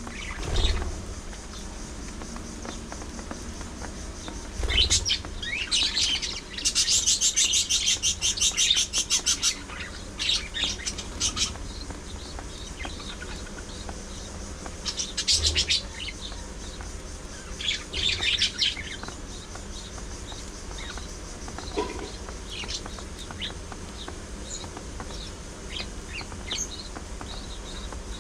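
Budgerigars chirping and chattering, with a fast run of rapid, evenly repeated chirps about a quarter of the way in and shorter chirping bursts later.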